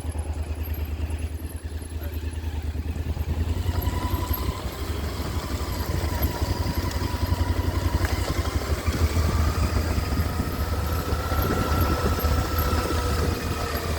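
Motorcycle engine running at low revs, a steady low chugging throughout, with a faint whine that slowly rises and falls in the second half.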